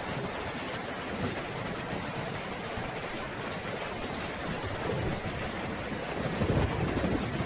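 Steady rain, with a low rumble of thunder swelling near the end.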